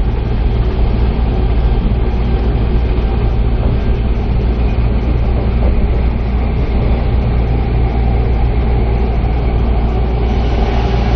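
Super View Odoriko electric express train running at speed, heard from inside the cabin: a steady, loud rumble of wheels on rail, heaviest in the low end.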